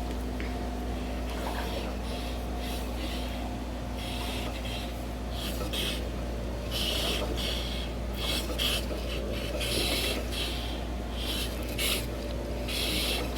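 Exercise machine running with a steady low hum, with irregular short bursts of high-pitched rasping noise from about five seconds in, growing more frequent towards the end: the new noise that came back after the machine was reassembled.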